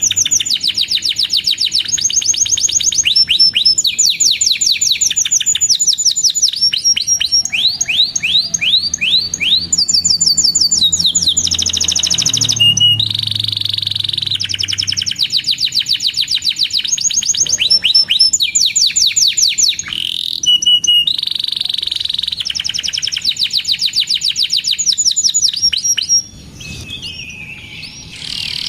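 Domestic canary singing in rapid trills: runs of fast, repeated high chirps rolling one into the next, broken by a couple of held buzzy notes, dropping quieter for a moment near the end.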